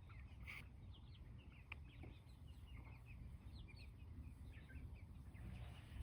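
Flock of young chickens, 7 to 10 weeks old, peeping faintly with many short, high chirps over a steady low rumble.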